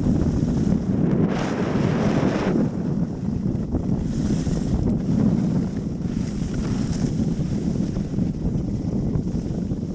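Wind buffeting the camera's microphone: a steady low rumbling rush, with a brief brighter hiss about a second in that lasts about a second.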